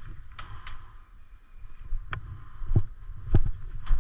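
Footsteps and gear jostling on a body-worn camera: a couple of sharp clicks about half a second in, then a run of dull thuds about every 0.6 s in the second half, over a low rumble.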